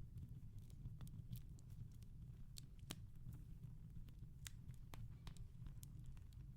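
Wood fire in a fireplace crackling faintly: irregular sharp pops and snaps over a low steady rumble.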